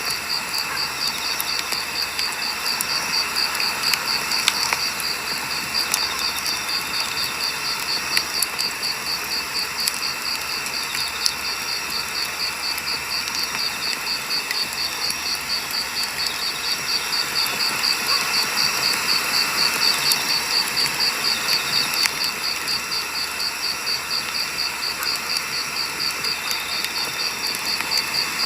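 Wood campfire burning, crackling with scattered sharp pops over a steady hiss, while a cricket chirps in a rapid, even, high-pitched pulse.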